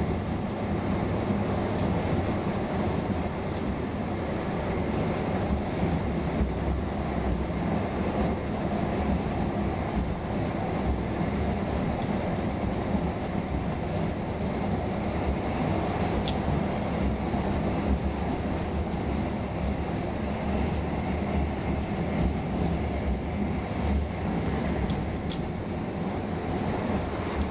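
Running noise of a Roslagsbanan X10p electric train heard from inside the carriage at speed: a steady rumble of wheels on rail. A high squeal rises over it from about four seconds in for several seconds, and a faint, very high whine runs through the middle.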